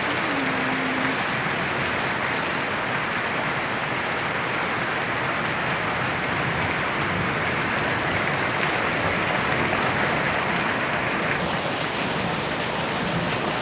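Rain pouring down in a steady, even hiss.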